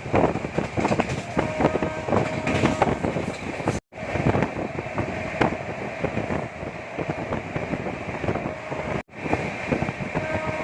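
Passenger train running: a continuous rumble and rattle of wheels on the track. The sound cuts out abruptly for a split second twice.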